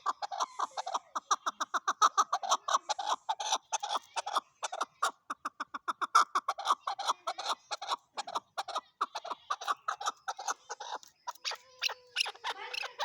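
Chukar partridge calling: a long, unbroken run of short clucking notes, about five a second.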